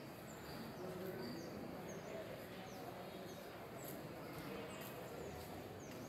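Small bird chirping over and over, short high notes that each fall quickly in pitch, against a steady hum of outdoor background noise.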